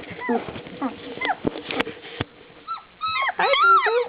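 Three-week-old Shiloh Shepherd puppies whimpering: a couple of short high whines that rise and fall in the first seconds, then a quick run of overlapping whines near the end. A few sharp clicks from handling come between them.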